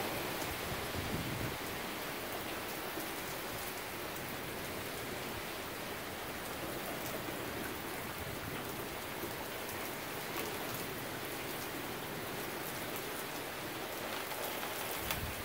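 Steady heavy rain from a severe thunderstorm, with scattered sharp ticks of drops hitting a nearby surface.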